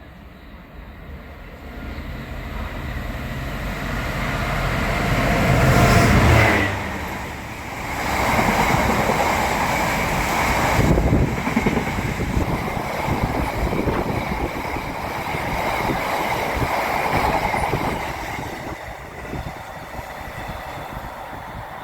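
A diesel train passing close by. Its engine note builds to a peak about six seconds in and then drops away suddenly. The rumble and clatter of the wheels on the rail follow as the rest of the train goes by, with a faint high squeal, fading near the end.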